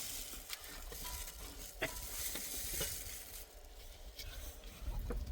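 Food sizzling as it fries over the fire, with a few sharp knocks of a utensil stirring it. The hiss fades after about three seconds.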